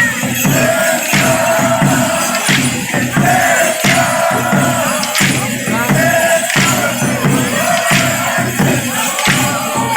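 Congada ensemble playing: drums and rattling percussion keep a steady rhythm, with a strong beat about every second and a half, under held sung notes.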